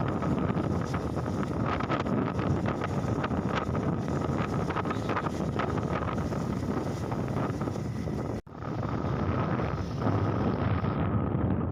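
Wind rushing over the microphone of a moving motorcycle, with the engine and road noise underneath. The sound cuts out for an instant about eight seconds in.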